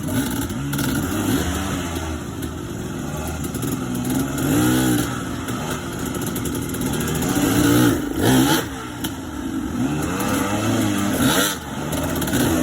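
Dirt bike engine revving up and down repeatedly as the throttle is opened and eased off while riding the trail, with two brief rushes of noise in the second half.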